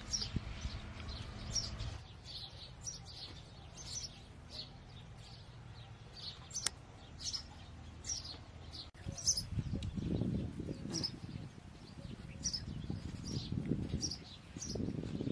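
Small birds chirping, short high chirps repeating about once or twice a second. From about halfway through, a low muffled rumbling noise comes in under them in swells.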